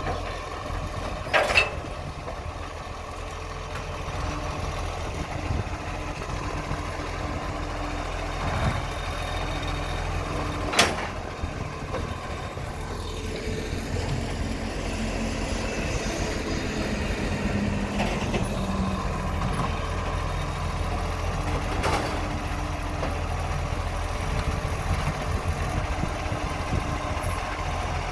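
Recycling truck engine running steadily, with three sharp knocks spread through the stretch and a low tone that rises slowly in pitch in the middle.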